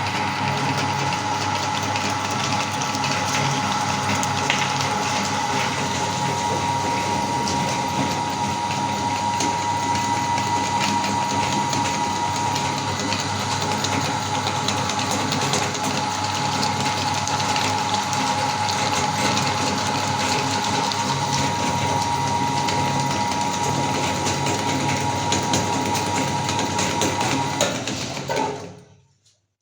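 Electric meat grinder running steadily, its motor giving a constant whine over a grinding noise, then stopping near the end.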